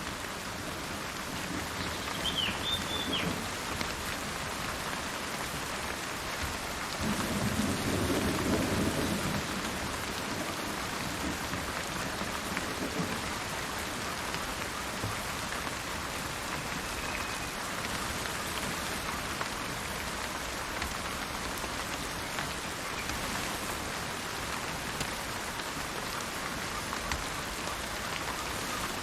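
Steady rain falling, with a low roll of thunder starting about seven seconds in and lasting a few seconds. A bird chirps briefly near the start and once more, faintly, mid-way.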